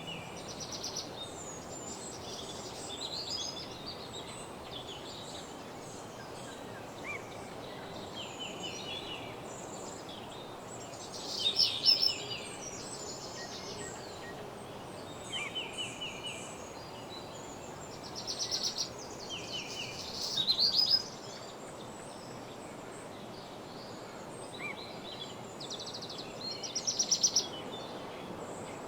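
Several woodland birds singing short trilled and chirping phrases, a few seconds apart, with the loudest bursts about a third and two-thirds of the way through and near the end. A steady background hiss runs underneath.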